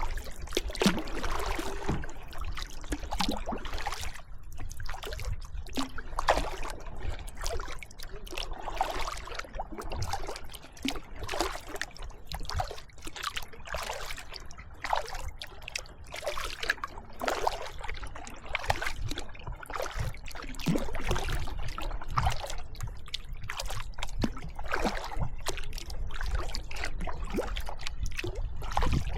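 Kayak paddling: the paddle blades dip and splash at irregular strokes, about one a second, and water trickles off them, over a steady low rumble.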